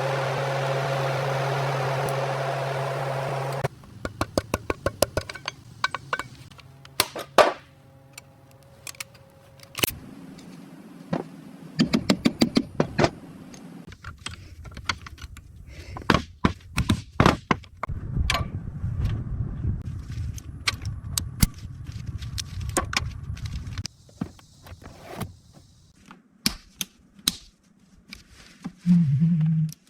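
A steady machine hum for the first few seconds, cutting off suddenly, then a long run of sharp clicks, knocks and clatter in quick clusters, with a low rumble in between.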